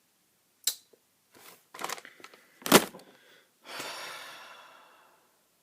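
A person's breath sounds: a few short puffs, a sharper, louder one about halfway through, then a longer breathy exhale that fades away.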